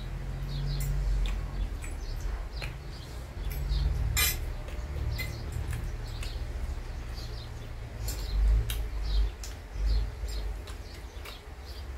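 Eating sounds from a mukbang of spicy noodles, pasta and aloo chaat: chewing close to the microphone, with scattered clicks of cutlery against a dish and one sharper clink about four seconds in.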